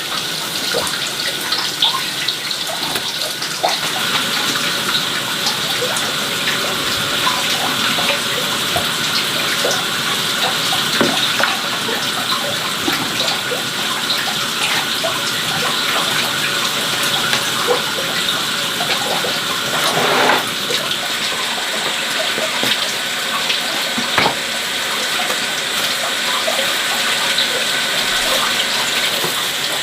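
Water running steadily, with scattered small clicks and splashes.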